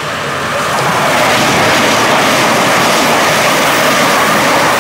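Great Western Railway Class 387 Electrostar electric train passing close by at speed: a rushing wheel and air noise that builds over about the first second, then holds steady and loud.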